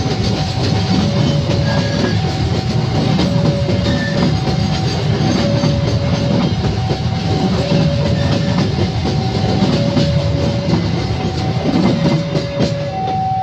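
Cement freight train's flat wagons rolling past at speed with a steady rumble and wheel clatter. Over it a level-crossing warning alarm sounds two alternating tones, a higher and a lower, each about half a second long, the last tone held longer near the end.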